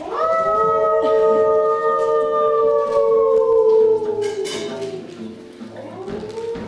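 Wolf howling: one long howl that swoops up, holds and slowly sinks over about four seconds, with a second howl rising right at the end.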